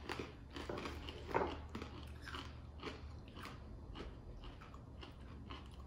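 Mouth crunching and chewing a crisp, dry noodle-stick snack with hard sugar chunks: a run of irregular crunches.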